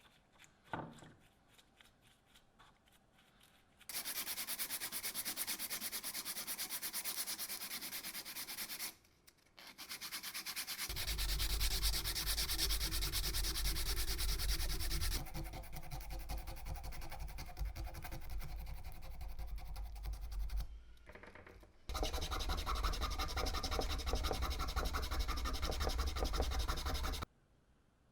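Abrasive sanding, a steady rasping rub in three long stretches with two short breaks, stopping about a second before the end.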